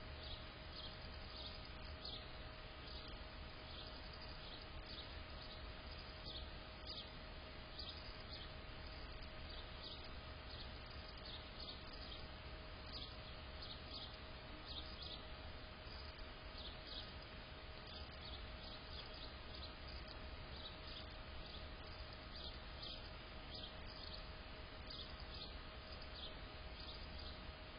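Faint outdoor ambience in a snowstorm: a steady hiss with a constant hum, and short high chirps about twice a second throughout.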